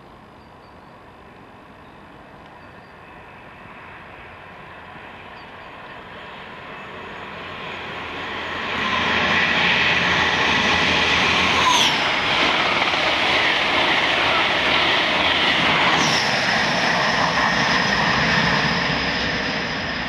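InterCity 125 high speed train with class 43 diesel power cars approaching and running through at speed: a rumble that grows, turns loud about nine seconds in with diesel engine whine and wheels on rail, and a falling pitch as it passes. It eases off near the end.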